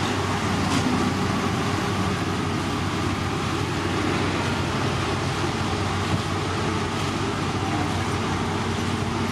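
Heavy road-construction machinery running steadily: a constant low engine drone under a dense mechanical din, with no change in pace.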